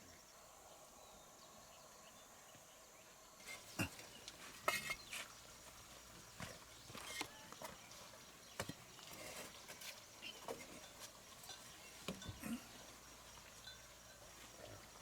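Faint scattered knocks and clicks starting a few seconds in, with a few short animal calls in between.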